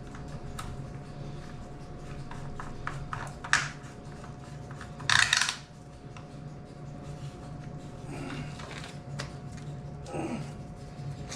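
Gasoline being poured by hand from a can into a motorcycle fuel tank: small clicks and knocks of the can and tank being handled, with a short gush of fuel about five seconds in, over a steady low hum.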